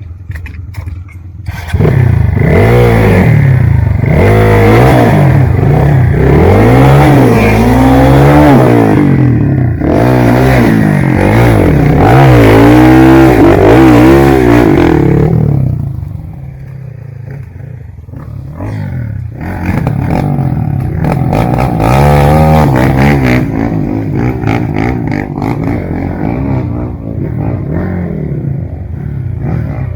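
Trail motorcycle engine revving hard in repeated rising and falling surges, loud for the first half, then running at lower revs with smaller surges from about halfway.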